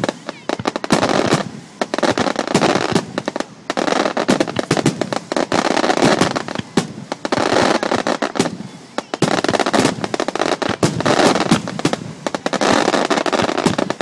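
Aerial firework shells bursting in a rapid barrage: many sharp bangs in quick succession with hardly a pause.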